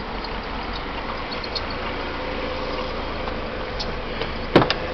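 Four-cylinder engine of a Ford Focus wagon idling steadily, with a sharp click near the end.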